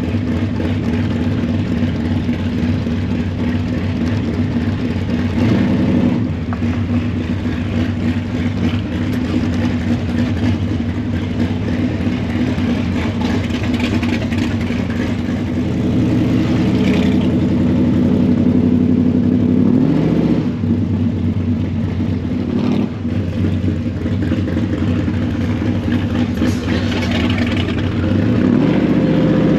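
Classic car's engine running steadily while cruising at low speed. The revs climb and drop once about two-thirds of the way through, and start climbing again at the end.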